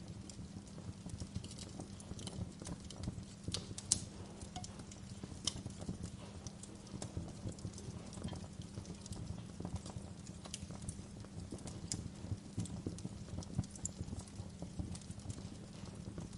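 Wood fire crackling, with irregular sharp pops and snaps over a steady low rumble of flames; one louder pop about four seconds in.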